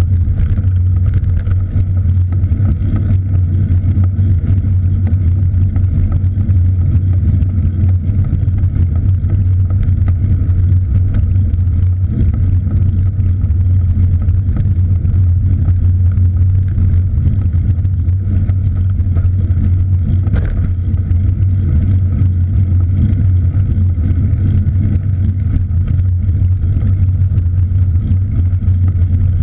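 A steady, loud low rumble that does not change.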